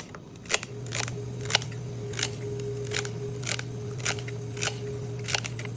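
Kitchen knife chopping celery stalks on a cutting board, a sharp chop about every half second. A steady low hum comes in about a second in and carries on under the chopping.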